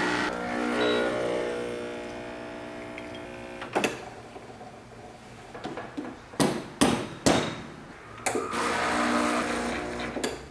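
A small electric kitchen appliance motor running in two short runs, the first winding down over a few seconds, with several sharp clicks and knocks in between.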